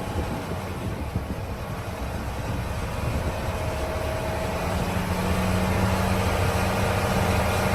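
Mack MP8 diesel engine of a semi tractor running, heard from the cab. It idles, then from about halfway the engine speed and loudness rise gradually.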